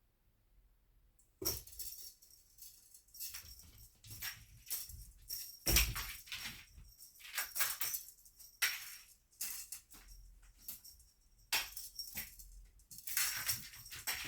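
Cat teaser wand toy rattling and jingling in irregular bursts as it is swung about, starting about a second and a half in.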